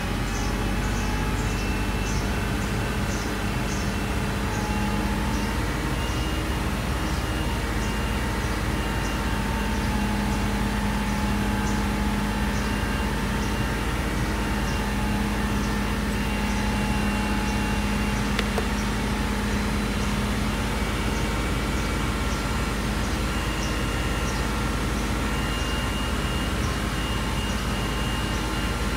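Audi Q5 engine held at a steady 2000 rpm, running evenly, for a charging-system test with the alternator charging the battery at about 13.7 volts.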